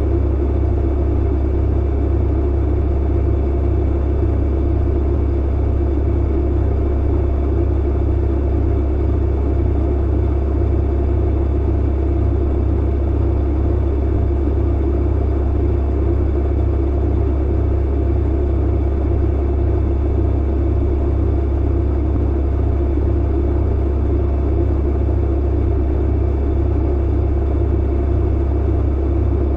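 Clothes dryer running steadily, a deep even hum under a constant rushing noise.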